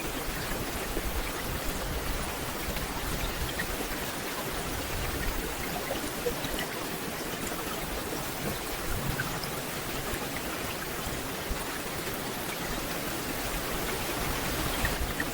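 Steady rain falling on a forest canopy: an even, dense hiss of raindrops, with single drops picked out here and there.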